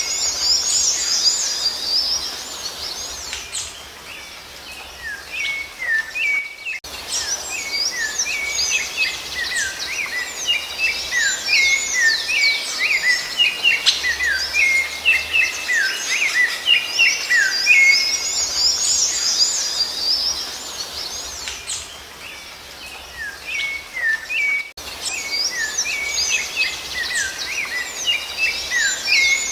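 Songbird singing a rapid, continuous twittering song of quick high chirps and downward-sweeping notes, easing off briefly twice.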